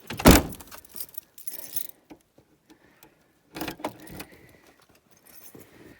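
Handling of metal objects: a loud knock just after the start, jingly metallic clinking and rattling, then a second knock with more clinks about three and a half seconds in, and faint jingling near the end.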